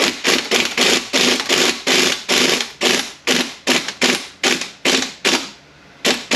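Ratchet wrench turning a 10 mm Allen socket in quick back-and-forth strokes. Each stroke gives a short burst of clicking, about three a second, with a short pause near the end before two more strokes.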